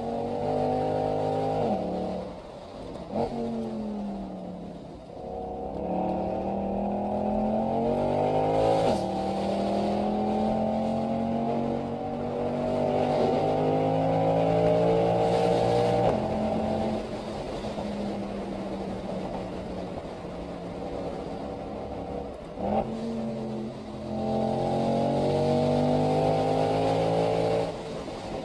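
Mercedes-Benz SL63 AMG V8 heard from inside the cabin, accelerating hard. The engine note climbs and drops back with each gear change, several times over. A lighter, steadier stretch in the middle is broken by a short blip of the throttle before it pulls up through the gears again.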